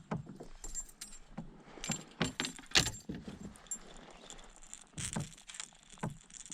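Fishing tackle being handled in a kayak: a run of light metallic jingles, clicks and small knocks, the sharpest about three seconds in.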